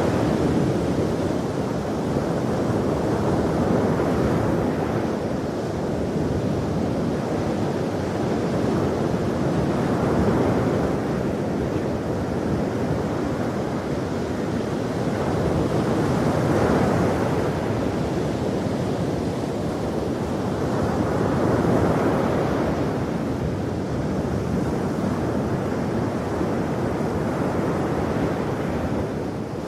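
Ocean waves breaking on a shore, a steady surf noise that swells and eases with each wave, about every five or six seconds.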